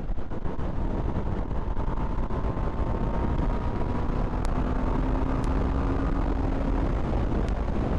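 Kawasaki GPZ500 parallel-twin engine pulling hard under acceleration, its note slowly rising, heard through heavy wind rush on the riding microphone.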